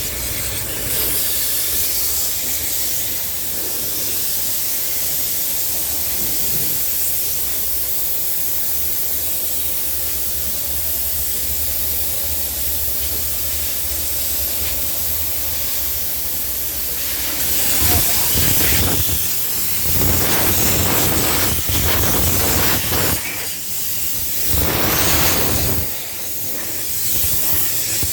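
Car wash water jets spraying onto a car with a steady hiss, giving way past the halfway mark to louder, uneven surges of spray.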